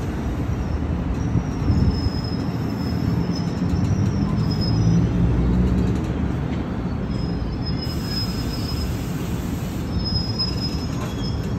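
NJ Transit MultiLevel double-deck train rolling past on the rails with a steady low rumble. Thin, high metallic squeals from the running gear come and go over it several times.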